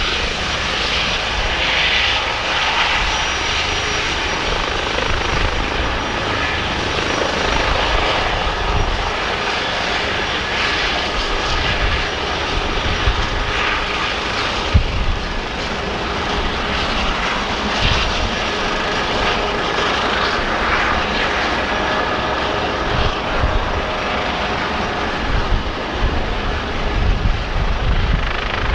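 A helicopter running nearby: a steady, loud mix of engine and rotor noise with a thin, high, steady whine on top and irregular low rumbles.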